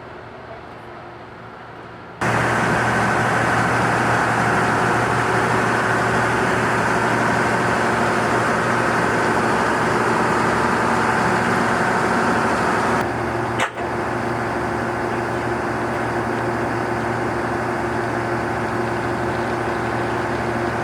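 Engine of heavy track-repair machinery running steadily with a constant hum. It jumps suddenly louder about two seconds in and has a brief break partway through.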